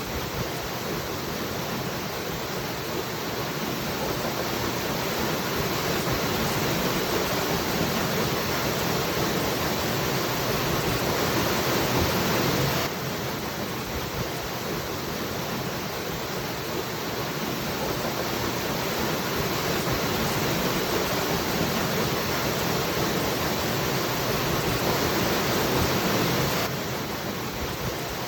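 Waterfall rushing as a steady, dense roar of falling water. The level drops abruptly about halfway through and again near the end, then slowly builds back, as a looped recording repeating.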